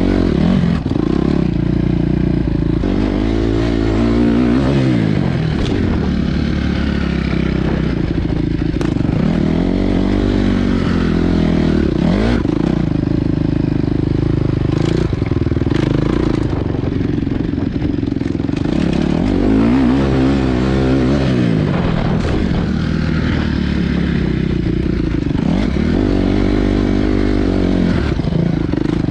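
Honda CRF250 dirt bike's single-cylinder four-stroke engine, revving up and easing off again and again as it is ridden, with scattered knocks and clatter.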